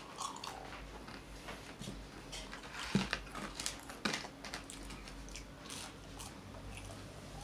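Close-up chewing and biting of crunchy, hard McDonald's chicken nuggets: irregular crackly crunches, a couple louder bites about three and four seconds in.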